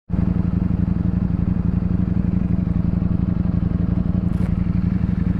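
Ducati Streetfighter V4 motorcycle's V4 engine running at a steady, even speed with a fast, regular pulsing beat.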